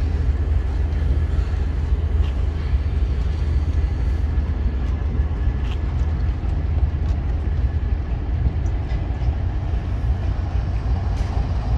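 Passenger train coaches rolling past at close range as the train pulls out, a steady low rumble of wheels on rail with a few faint clicks.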